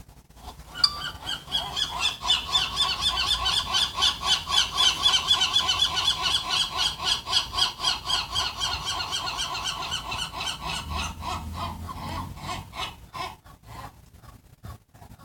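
Gulls calling: a long, fast run of repeated honking yelps, about four a second, starting about a second in and tailing off over the last few seconds.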